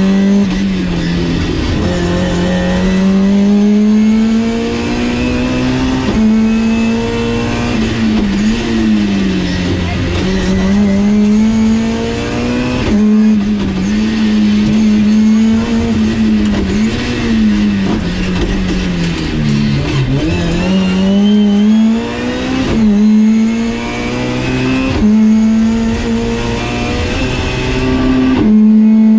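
In-cabin sound of a BMW E30 320is rally car's 2.0-litre four-cylinder engine driven hard: revs climb through each gear and fall sharply at repeated quick upshifts, with a few dips and rises as it shifts down for corners.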